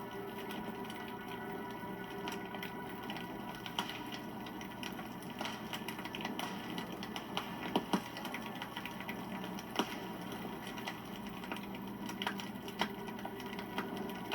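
Wood campfire crackling steadily, with a constant patter of small ticks and a few sharper pops, the loudest a quick pair about eight seconds in.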